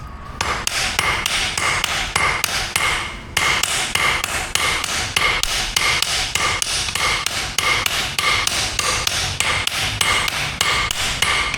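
Forging hammer blows on steel at an anvil, in a steady rhythm of about two to three strikes a second, each with a short metallic ring. The blows stop briefly about three seconds in, then carry on.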